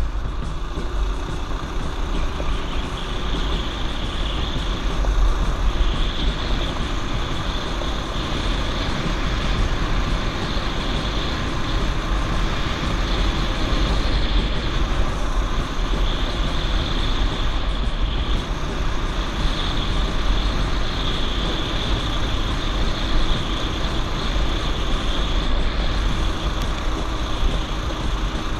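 Small single-cylinder mini bike engine running steadily under way, with heavy wind rumble on the action camera's microphone.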